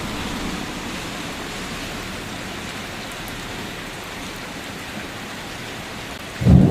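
Steady rain falling, an even hiss of drops; just before the end a loud, low thunderclap suddenly breaks in.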